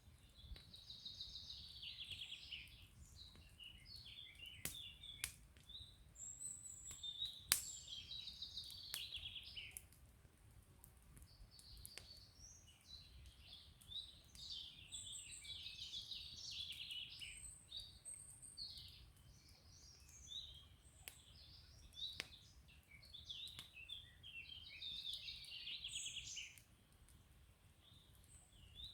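Small songbirds singing in repeated chirping, trilling phrases with short pauses between them, over the odd sharp pop of a crackling wood campfire and a faint low rush.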